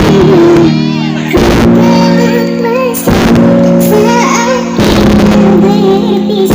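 Loud music played through a large event sound system during a sound check: singing with a wavering melody over sustained keyboard chords that change every second or two.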